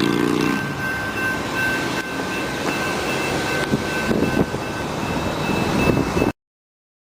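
Passing train: a pitched horn blast ends about half a second in, then the train runs by with a steady noise and a thin high ringing tone, with a few sharp knocks around the middle. The sound cuts off abruptly near the end.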